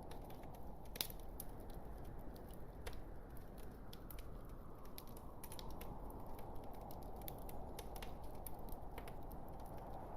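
Wood fire burning in a fireplace: a steady low rumble of flames with irregular small crackles and pops from the logs, one sharper pop about a second in.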